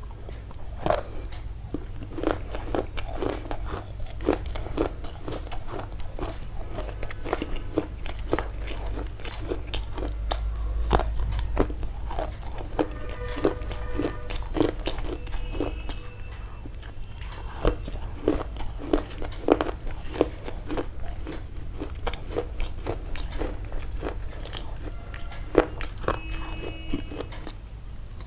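Close-up crunchy biting and chewing: a steady run of crisp crunches, about two a second.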